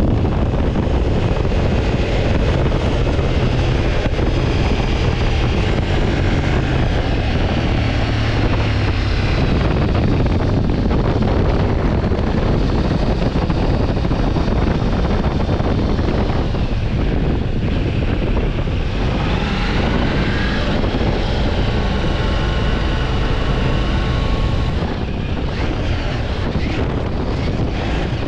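Motorcycle riding at speed, heavy wind rushing over the camera microphone over a steady engine note, which rises and falls in pitch about two-thirds of the way in.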